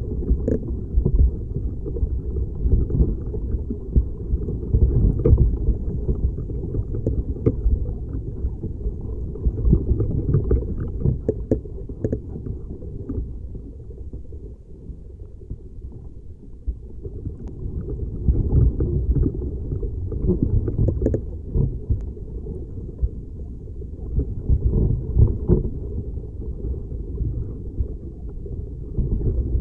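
Tree branch creaking as it moves in the wind, heard through a contact microphone on the wood: a dense low rumble with scattered small clicks and cracks. It eases off for a few seconds about halfway through, then builds again.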